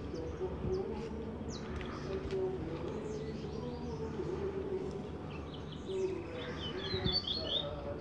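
A small songbird chirping, with a quick run of high chirps near the end, while held in a hand with its leg ring snagged on a thin homemade wire fruit holder.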